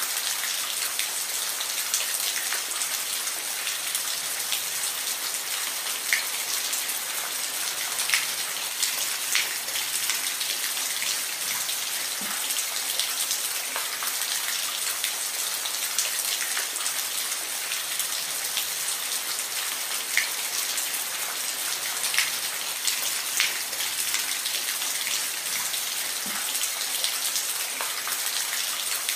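Steady rain, a continuous hiss with scattered individual drops ticking close by.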